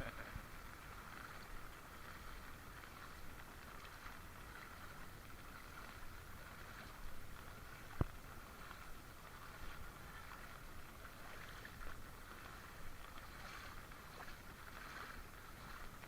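Floodwater sloshing and running in a steady wash, with one sharp click about eight seconds in.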